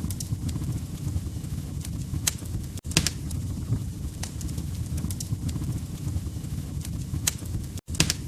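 Log fire crackling: scattered sharp pops and snaps over a steady low rumble of burning. The sound cuts out for an instant twice, a little before three seconds in and near the end.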